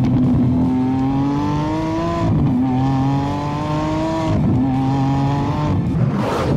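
Lamborghini Aventador S's 6.5-litre V12 accelerating hard through the gears. Its note climbs steadily in pitch, falls back at three upshifts, then a short whoosh comes near the end.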